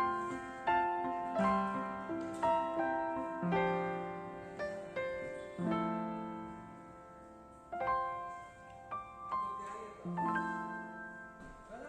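Background piano music: slow chords, each struck sharply and left to fade.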